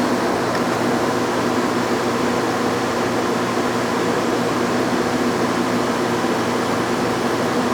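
Metal lathe running steadily, a constant hum with several steady tones, while it takes a light finishing boring pass in a pulley's bore.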